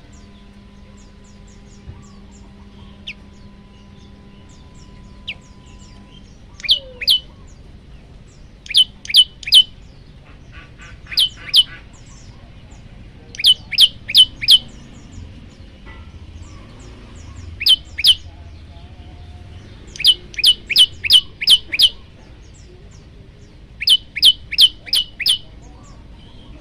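Male olive-backed tailorbird calling to a female in short bursts of two to six sharp, high, quick notes, with a burst coming every few seconds.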